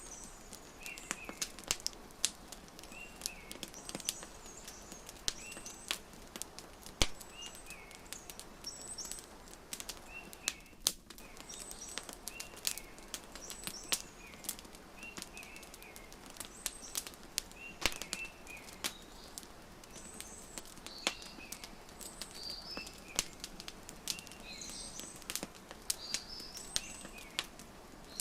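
Wood fire crackling with irregular sharp pops over a soft steady hiss, while small birds chirp in short repeated calls every second or two.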